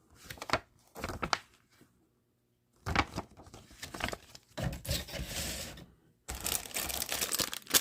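Packaging being handled during an unboxing: plastic wrapping crinkling and rustling, with scattered clicks and taps of the parts and box. There is a short silent gap about two seconds in, and the rustling is densest near the end.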